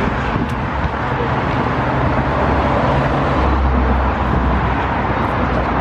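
Car on the move: a steady rumble of engine and road noise.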